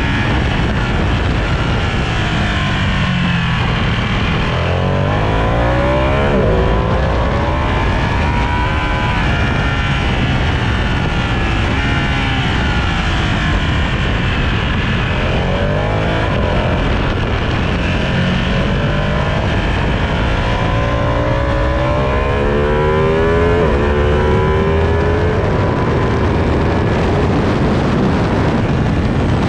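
Sport motorcycle engine ridden hard on a race track, its pitch climbing steeply several times as it accelerates and dropping away between climbs, over a constant heavy rush of noise.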